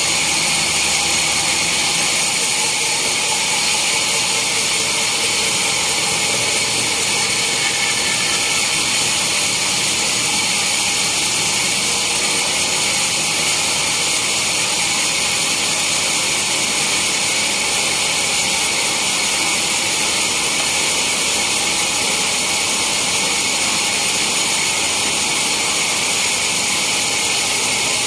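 Sawmill saw running steadily on teak logs, a loud unbroken high-pitched hiss and whine that neither rises nor falls.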